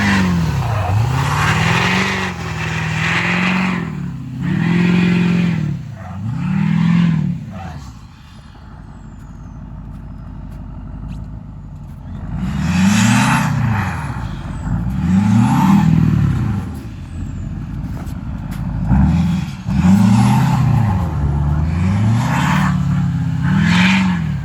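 Vehicle engine revved over and over, each rev rising in pitch and dropping back, with a quieter stretch of idling near the middle before the revving resumes.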